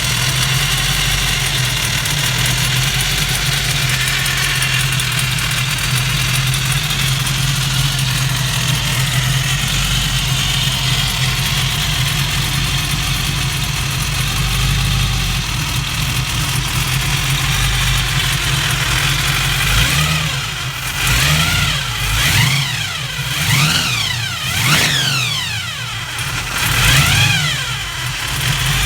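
Blown 421-cubic-inch small-block Chevy V8 with a Hampton 6-71 supercharger and twin Holley blower carbs, idling steadily on a fresh start-up. About two-thirds of the way in it is revved in several short throttle blips, each rising and falling in pitch.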